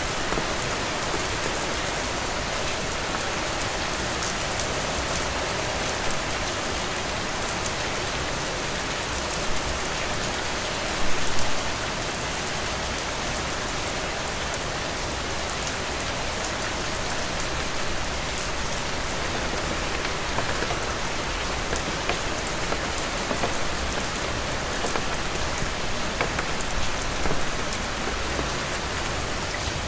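Heavy rain falling steadily, an even hiss, with a few brief louder taps now and then, the loudest about eleven seconds in.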